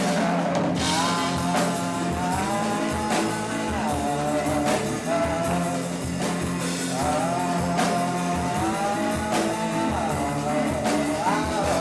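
A rock band playing live: drums and bass under a wavering melody line, between sung verses of the song.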